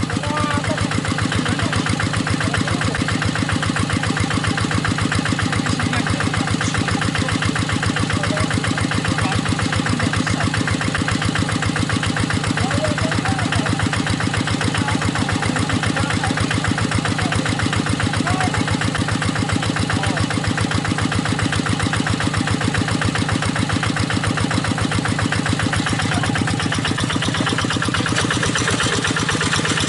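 Walking tractor's single-cylinder diesel engine running steadily at idle after a hand-crank start, with a fast, even chuffing beat. The note shifts slightly near the end.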